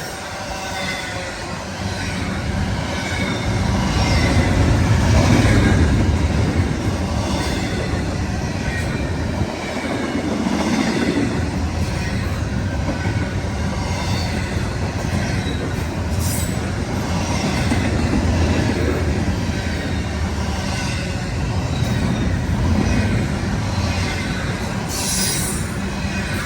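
Intermodal freight train cars rolling past at speed, a steady rumble with wheels clicking over rail joints every second or two and a faint wheel squeal.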